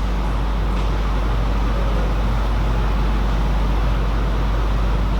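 Steady background noise of a table tennis hall with a constant low hum and no ball strikes.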